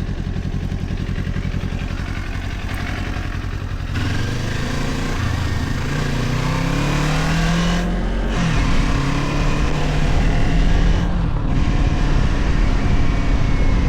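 Kawasaki Ninja 500's parallel-twin engine running steadily, then about four seconds in revving up as the bike pulls away, its pitch rising until it drops at a gear change a little after eight seconds. It then carries on under way, louder, with rushing noise.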